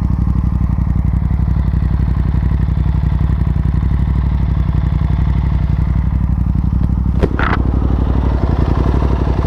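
Aprilia RS 660's parallel-twin engine running at a steady, unchanging speed. There is a brief clatter about seven seconds in.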